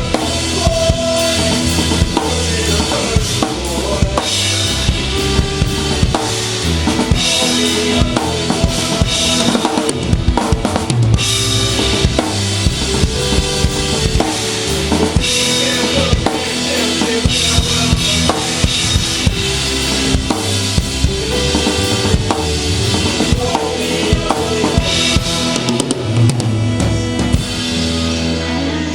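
A live rock band playing an instrumental passage, heard close to the drum kit: kick and snare hits stand out loudly over sustained bass and other instruments.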